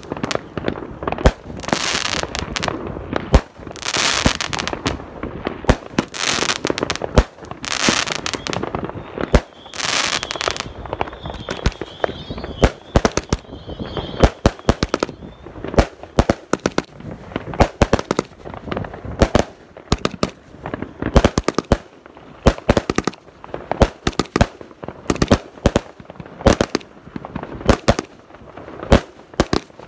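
Consumer firework cakes firing shot after shot: sharp bangs of tubes launching and shells bursting, several a second, with crackle between them. The 'Lost Control' cake gives way to the 'Patriot' cake about eleven seconds in.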